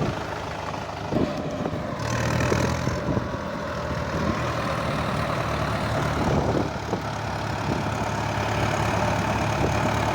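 Mahindra tractor's diesel engine running steadily at a constant speed, its low hum settling into a steady pitch about two seconds in.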